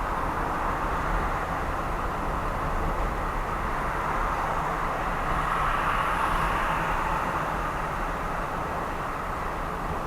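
Steady road noise of a car driving at speed: tyres and engine, with no breaks. It swells a little about halfway through.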